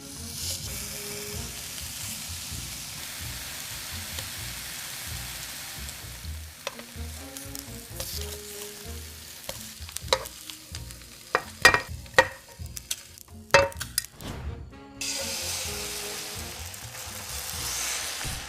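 Food frying in hot oil with a steady sizzling hiss. Partway through, a utensil clinks and taps several times in the pan. After a brief break, the sizzling starts again.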